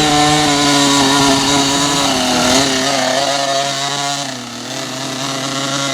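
Motocross bike engine running steadily, its pitch wavering and dipping briefly about four seconds in before picking up again.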